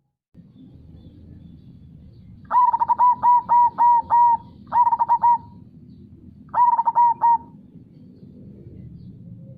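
Zebra dove (perkutut) singing its cooing song in three phrases of quick repeated notes: a long first phrase, a short second and a short third. The song plays over a low steady river-like background.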